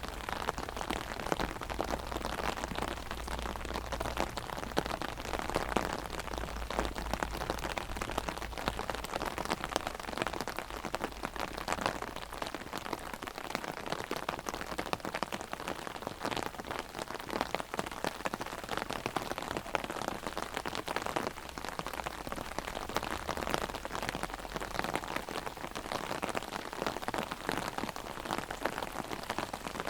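Heavy rain hitting an umbrella held overhead: a dense, steady spatter of many drops.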